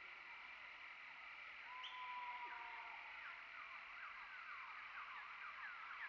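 Wild birds calling in forest: a long whistled note about two seconds in, then a quick run of short falling chirps, over a steady high background hiss.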